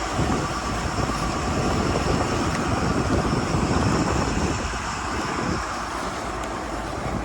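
A Bayliner 4788 motor yacht's engines running underway: a steady, loud rumble mixed with a rush of wind and water noise, swelling slightly midway and easing a little in the last seconds.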